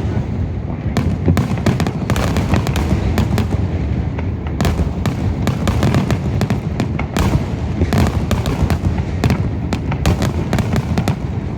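Fireworks finale: a dense, rapid barrage of aerial shell bursts and crackles, many bangs a second over a continuous low rumble.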